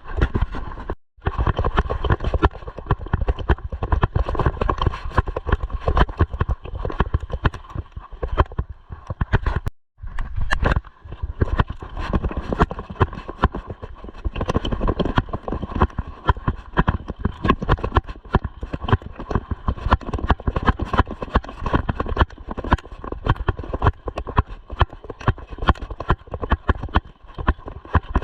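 Mountain bike rattling and clattering over a rough dirt trail: a dense, irregular run of knocks and jolts that cuts out briefly twice, about a second in and again near ten seconds in.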